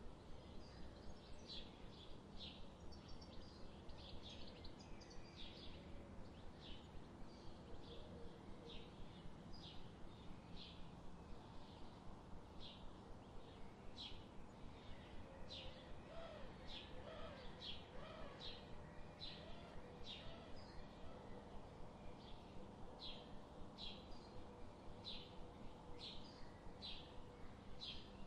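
Birds chirping faintly: a steady series of short high chirps, about one to two a second, with a few fainter, lower warbling notes in the middle.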